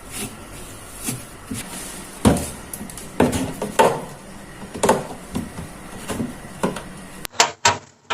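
Kitchen handling sounds: a series of separate knocks and light clatters, roughly one a second, like doors, containers and dishes being moved and set down.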